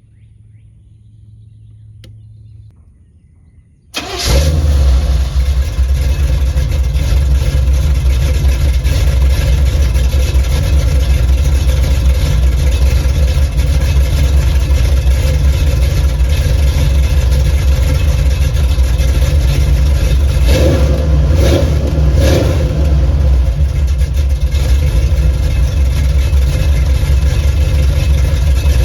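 A 383 stroker small-block Chevrolet V8 with Flowmaster Super 44 mufflers on a true dual exhaust starts about four seconds in, catching suddenly. It then idles loud and deep.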